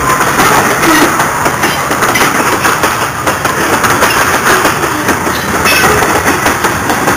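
Covered hopper cars of a freight grain train rolling past close by: a loud, steady rumble with the rapid clatter of steel wheels on the rails.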